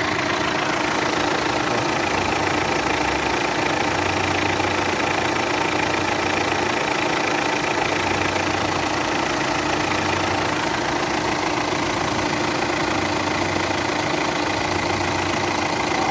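VW Amarok turbo-diesel engine idling steadily, its newly replaced power steering pump running without the noise the old pump made.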